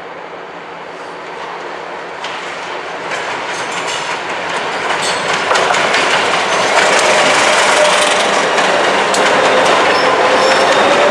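A train approaching and rolling past, growing louder over the first six seconds and then holding steady. Its wheels click over the rail joints, with a thin, sustained wheel squeal.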